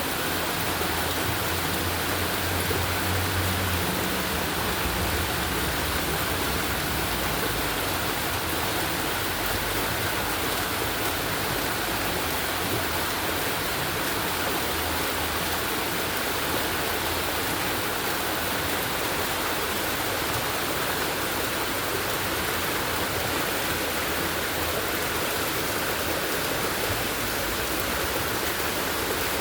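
Heavy rain falling in a steady downpour, an even rushing hiss with no let-up.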